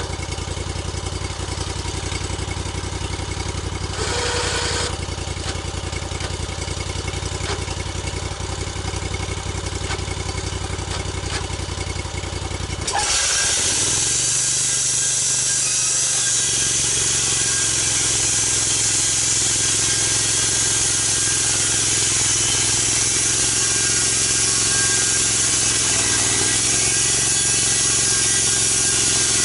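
Engine of a log-milling saw running steadily. About thirteen seconds in it picks up, and a loud, steady, high hiss of the saw cutting through the log joins it and holds.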